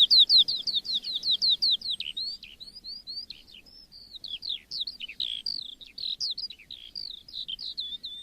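Skylark singing: one long, unbroken song of high notes, opening with a quick run of repeated down-slurred notes and going on into a varied stream of twittering phrases.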